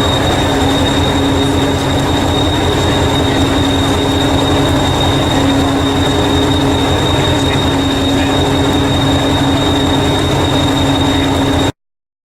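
Electric train running with a steady low hum and a constant high-pitched whine over a rumble. The sound cuts off abruptly near the end.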